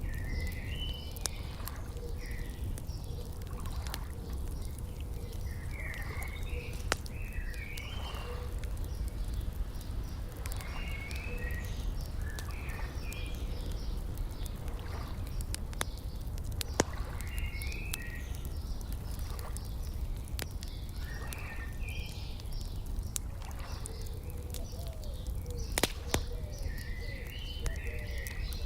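Wood fire crackling with scattered sharp pops, the loudest at about 7, 17 and 26 seconds in, mixed with a songbird singing short chirping phrases every few seconds over a low steady rumble of outdoor ambience.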